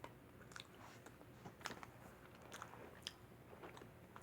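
Faint chewing and biting of frozen pepperoni pizza, a few soft crunchy clicks of the mouth and crust spaced about a second apart.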